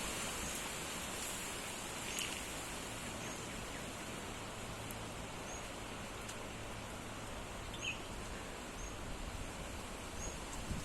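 Summer storm wind rushing steadily, with faint short high chirps every second or two.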